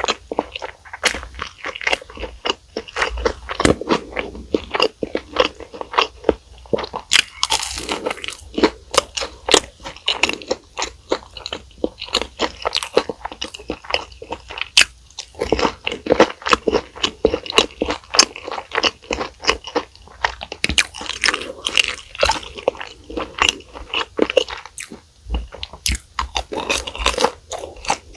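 Close-miked eating: a person biting into and chewing crunchy fast food, with dense crackly crunches and wet chewing throughout.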